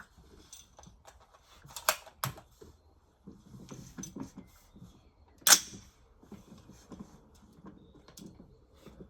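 Mechanical clicks and rustles of handling an AR-15 rifle, with two sharp clicks about two seconds in and one much louder sharp metallic snap about five and a half seconds in.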